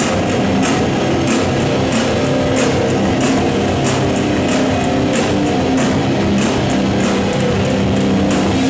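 A rock band playing live: guitars over a drum kit, with a cymbal struck steadily about every two-thirds of a second.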